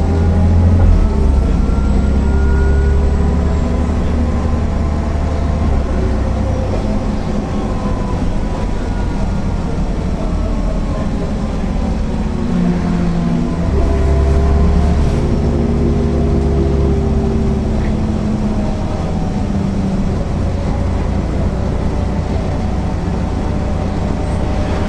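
The six-cylinder diesel engine of a MAN NL 262 city bus runs under way, heard as a steady low rumble. Its note rises and falls with load, strongest near the start and again about 14 seconds in.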